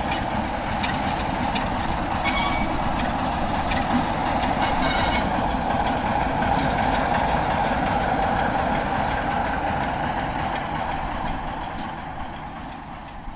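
A train running on the track, wheels rumbling and clicking over the rails, with two brief high wheel squeals about two and a half and five seconds in. It eases off near the end.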